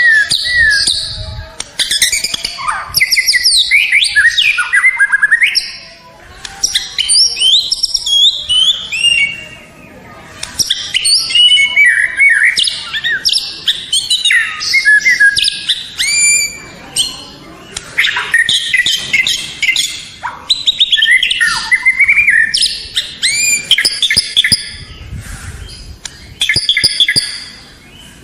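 White-rumped shama (murai batu) singing: a loud, fast run of varied whistles, trills and chattering phrases, broken by brief pauses every few seconds.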